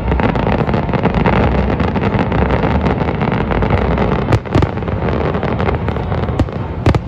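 Fireworks going off: a dense, continuous crackle of many small reports, with several sharper separate bangs in the second half.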